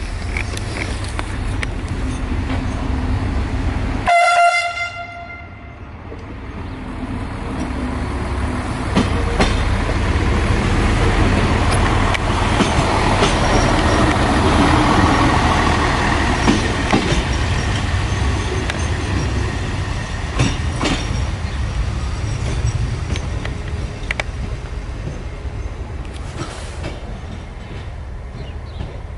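A passenger diesel multiple unit train passes close by on the track, its running rumble building to a peak midway and then fading, with wheels clicking sharply over rail joints and switches. About four seconds in there is one short, loud train horn blast.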